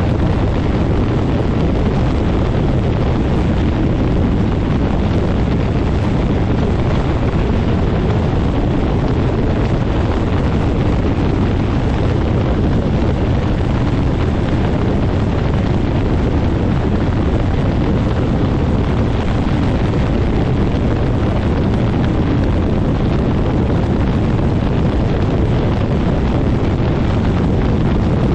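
Quicksilver MX ultralight's engine and propeller running steadily, the prop blast hitting the microphone as loud, continuous wind buffeting.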